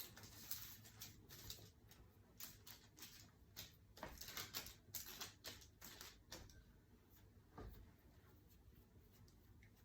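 Faint, irregular soft taps and clicks of hands working and pinching potato roll dough, thickest in the first few seconds and thinning out after about six seconds.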